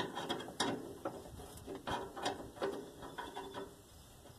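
Socket ratchet clicking in short, uneven runs as a 9/16 deep-well socket runs in the bolts holding up a fuel tank.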